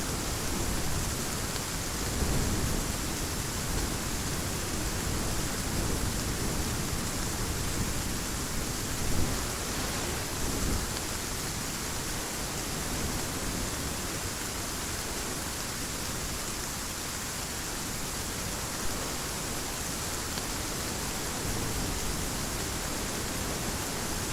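Heavy rain falling steadily, with low rolling thunder rumbling under it, swelling a few times and loudest about nine seconds in.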